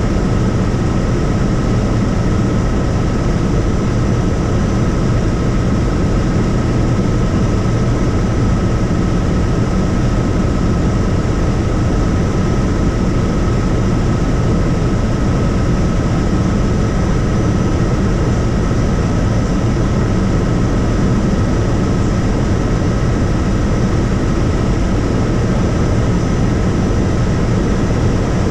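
Helicopter in flight: steady rotor and engine noise with a constant high whine above it.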